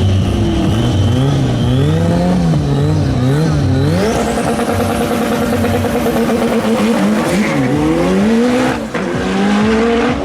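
Turbocharged drag cars revving up and down at the starting line, then launching about four seconds in and running hard at full throttle, with a high whine climbing as they pull away. Near the end the engine note drops briefly and revs climb again.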